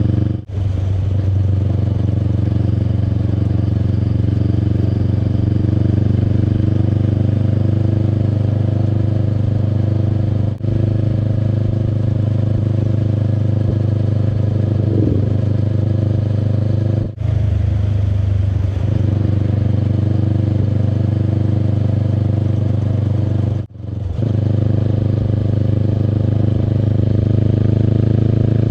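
Kawasaki Eliminator SE's 400 cc parallel-twin engine running steadily under way through an aftermarket BEAMS full exhaust (Power Header pipe and muffler). The sound is briefly cut off four times.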